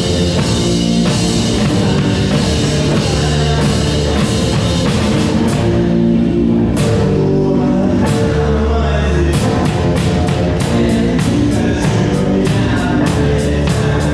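Rock band playing, with drum kit, guitar and a voice singing. There is a short break about six seconds in, and then cymbal hits on a quick steady beat.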